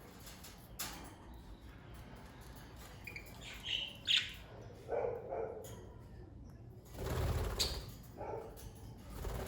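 Pet budgerigars chirping in short calls, with a burst of wing flapping about seven seconds in.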